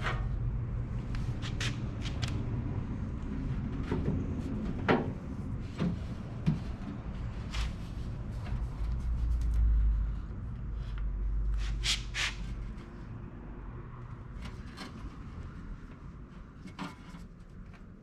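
Scattered clicks and knocks from a diesel heater and its fittings being handled and fitted into a trailer box, over a low rumble that swells about ten seconds in and fades near the end.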